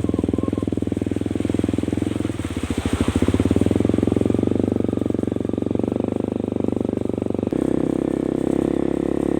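Motorcycle engine running steadily while riding, with a fast even pulsing and road and wind noise. The engine note changes about two and a half seconds in and again at about seven and a half seconds.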